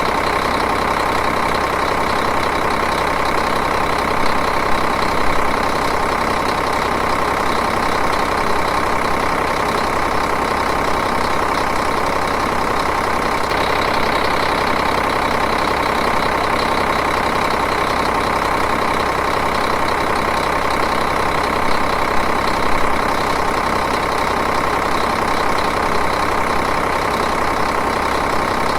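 Diesel engine idling steadily, a fast even clatter with a constant tone.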